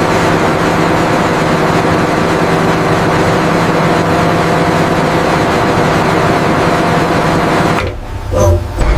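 Industrial machinery running with a steady hum and several steady tones, which cuts off about eight seconds in, followed by a brief lull with a few short sounds.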